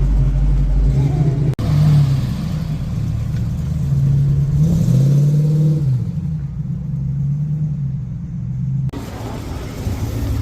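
Car engine running, its pitch swinging up and back down with a rev about halfway through. The sound changes abruptly twice, about a second and a half in and near the end.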